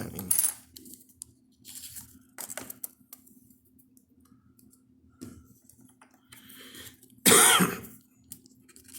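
Scattered short rustles and taps of scratch-off lottery tickets being handled between scratches, then a short cough about seven seconds in, the loudest sound.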